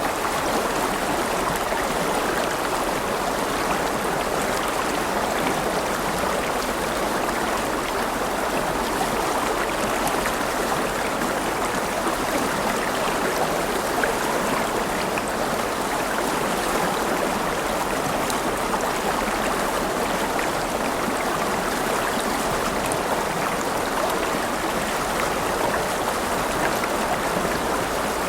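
A river running over rocks: a steady rushing and babbling of flowing water.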